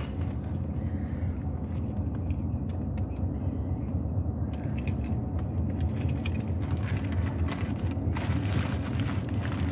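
Car driving along a road, heard from inside the cabin: a steady low engine and tyre rumble, with a rise in tyre hiss about eight seconds in.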